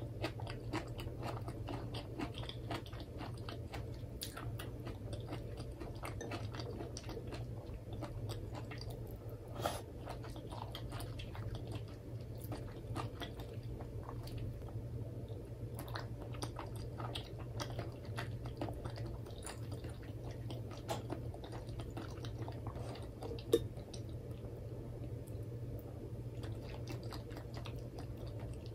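Close-miked ASMR chewing of soft simmered nimono, daikon radish soaked through with broth, with many small wet mouth clicks over a steady low hum. One sharper click comes a little past two-thirds through.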